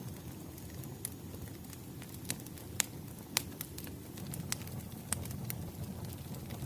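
Wood fire crackling: irregular sharp pops and snaps over a steady low rumble of burning logs, with two louder pops near the middle.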